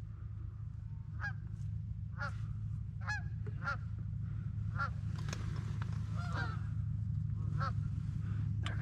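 Canada geese honking as the flock comes in close: about ten short honks at irregular spacing, over a steady low hum.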